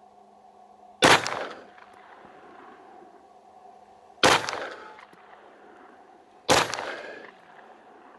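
Three single pistol shots from a Zev-modified Glock, spaced a few seconds apart, each followed by a short echo that dies away.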